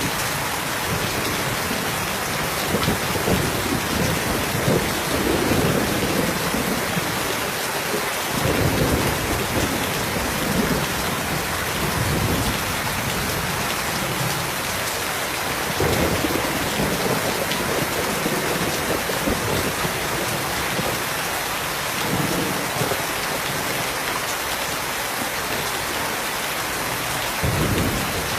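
Steady heavy rain with several low rolls of thunder, the strongest about a third of the way in and again near the end.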